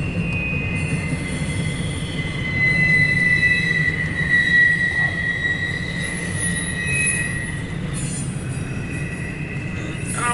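CSX intermodal freight train rolling past: a steady low rumble of wheels on rail, with high-pitched steady wheel squeal that swells about three seconds in and fades again.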